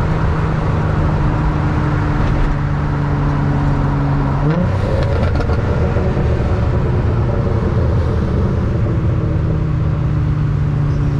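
Infiniti G35's 3.5-litre V6 engine running steadily under way. About four and a half seconds in, its pitch rises sharply as it revs up, then it settles back into a steady drone.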